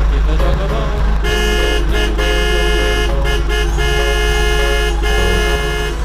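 A vehicle horn honking in a run of toots of varying length, starting about a second in, over background music with a steady low beat.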